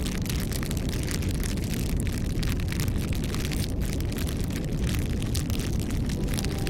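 Wood fire crackling and popping over a steady low rumble of burning, many sharp crackles a second. Faint music comes in near the end.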